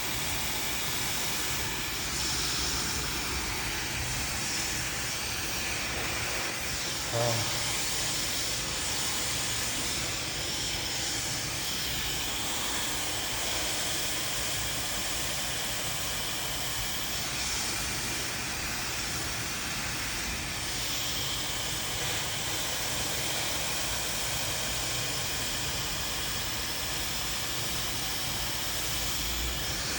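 Handheld hair dryer blowing steadily as hair is blow-dried, a constant airy hiss, with one brief knock about seven seconds in.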